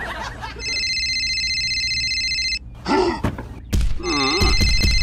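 Telephone ringtone sound effect: a steady high trilling ring lasting about two seconds, then a short break with a brief voice-like sound and a low thud, and the ring starts again about four and a half seconds in.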